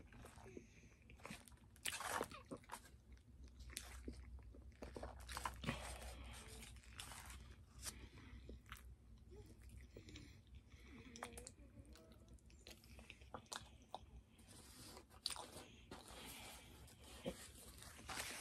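Faint chewing and crunching of a crispy fried chicken sandwich, with irregular crisp bites every second or so between quieter mouth sounds.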